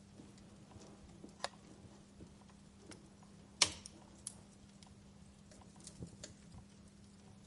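Wood fire crackling in a fireplace: scattered small snaps, with one loud pop about halfway through.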